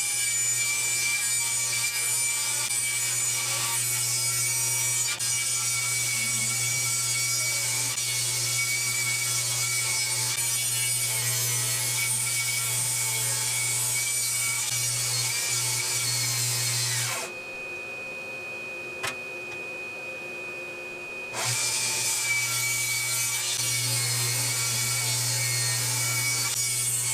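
Power saw running and cutting lumber steadily. The cut stops for about four seconds partway through, then resumes.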